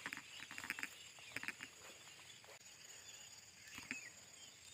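Small birds chirping faintly in short, quick repeated notes, busiest in the first two seconds and thinning out after, in a tea garden at dusk.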